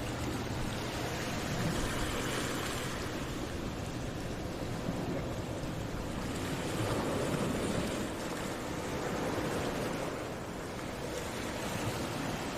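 Ocean waves washing onto a beach, a steady rush that swells and fades slowly several times.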